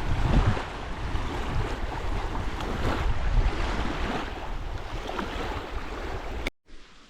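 Strong gusting wind buffeting the microphone along a lakeshore, with waves washing in under it. It cuts off abruptly about six and a half seconds in to a much quieter background.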